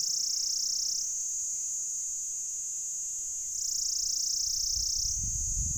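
Pycna repanda cicada calling: a continuous high, shrill buzz that swells louder for a second or so at the start and again about three and a half seconds in, then settles back. A low rumble comes in near the end.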